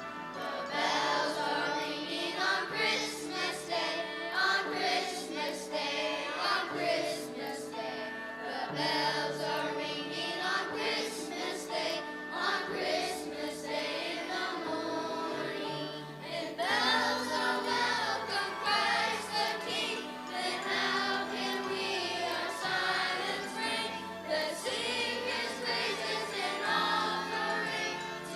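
A choir singing a song over instrumental accompaniment.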